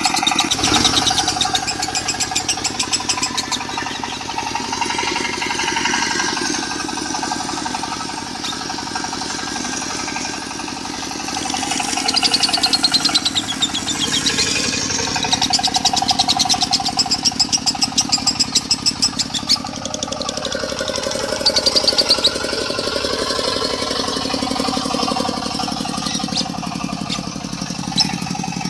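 Lovebird singing in long, rapid chattering trills in the 'konslet' style, over a diesel engine running steadily.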